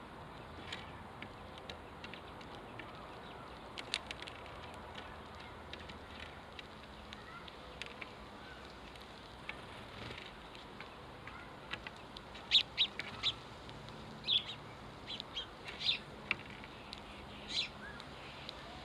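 House sparrows chirping: short, scattered chirps, louder and more frequent in the second half.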